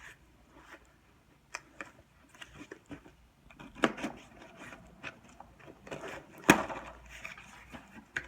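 A package being opened by hand: cardboard and packing rustling and scraping, with scattered clicks and a few sharp knocks, the loudest about six and a half seconds in.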